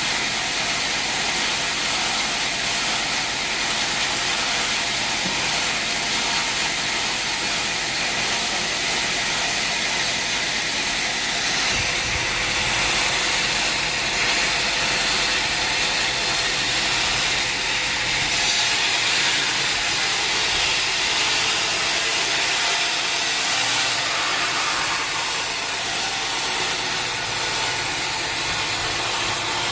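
Sawmill machinery running steadily: a dense, hissing mechanical noise with a steady hum underneath, shifting in character about twelve and eighteen seconds in.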